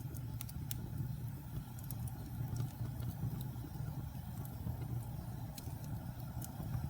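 Wood fire burning in a fireplace: a steady low rumble of flames with scattered sharp crackles and pops from the burning logs, several in quick succession in the first second.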